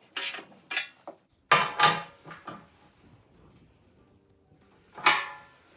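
Socket and spanner clinking and clanking on a bolt-through bush puller as the nut is wound in to draw a subframe bush into place. Several sharp metal clinks in the first two and a half seconds, a quiet stretch, then one more loud clank near the end.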